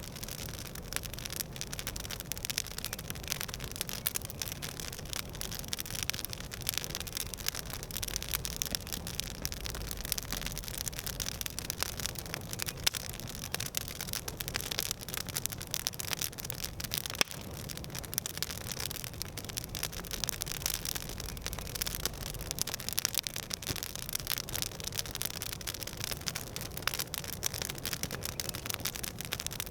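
Campfire crackling: many small, sharp crackles over a steady hiss of burning wood, with one louder pop a little past halfway.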